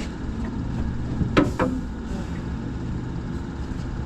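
Steady low mechanical hum, like an engine or machinery running, with two sharp knocks close together about a second and a half in.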